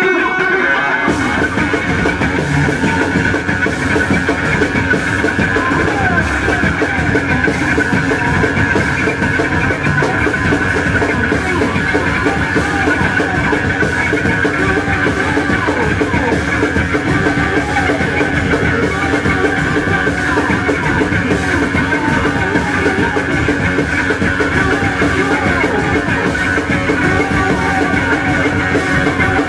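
Live noise rock from a bass-and-drums duo: a heavily distorted electric bass drones and riffs, and a drum kit comes in about a second in with fast, dense pounding. The playing is loud and continuous.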